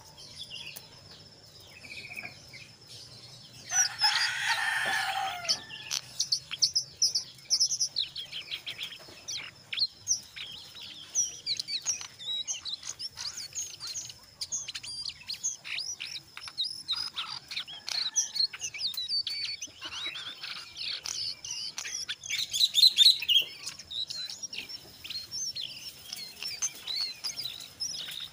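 Jongkangan coklat calling in a long run of rapid, high chattering chirps and short sweeping notes, with louder calls mixed in. A loud rustling burst comes about four seconds in.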